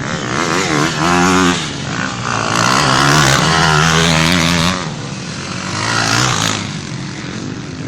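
Motocross bikes racing past, their engines revving up and down in pitch. The loudest stretch is a few seconds in, and the sound fades near the end.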